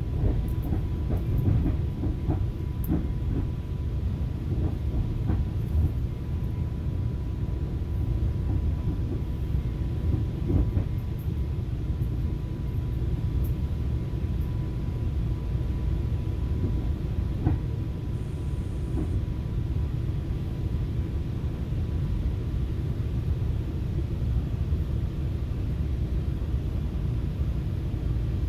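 FrontRunner commuter train heard from inside a passenger car while under way: a steady low rumble of wheels on the rails, with scattered clicks over the first few seconds. A faint steady whine sits above the rumble and fades out a little past halfway.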